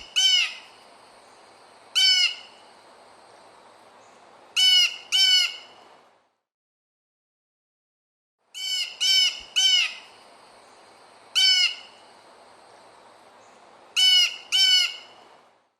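Blue jay giving its harsh 'jay' calls, singly and in pairs, in two runs of about five calls each with a silent pause of about two seconds between them.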